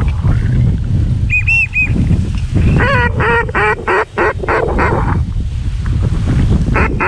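Ducks quacking in a rapid run of calls, with three short high whistled notes just before them, over a heavy rumble of wind on the microphone.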